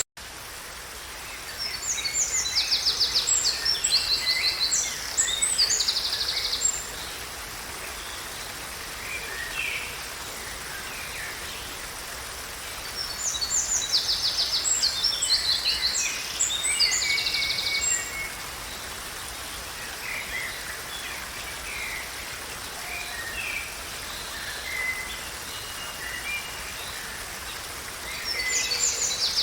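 Songbird singing: bouts of fast, high trills and repeated notes about every twelve seconds, with softer chirps in between over a steady faint outdoor hiss.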